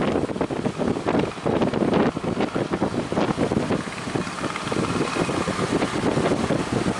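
Strong wind buffeting the microphone in uneven gusts over surf, with a speedboat's engine running faintly underneath.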